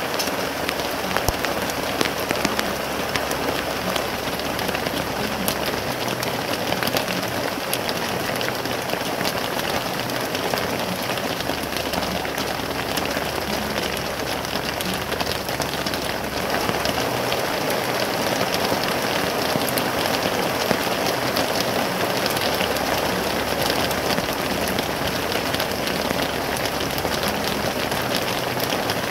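Steady rain falling, a continuous hiss flecked with the clicks of individual drops striking.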